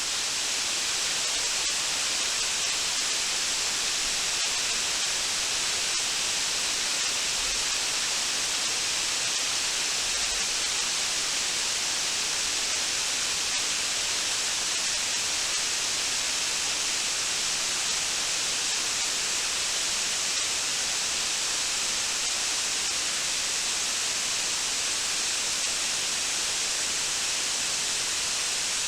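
Waterfall rushing steadily, a bright, even hiss of falling water that does not change.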